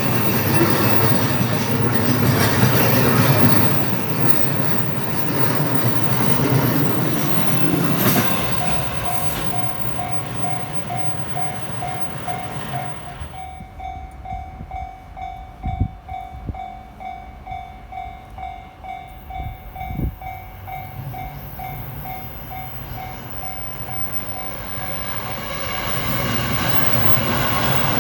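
An electric train running past a railway level crossing, its loud wheel and running noise dying away about eight seconds in. The crossing's warning bell then rings on its own in quick pulses, about two to three a second, with a few dull thumps. Train noise builds again near the end.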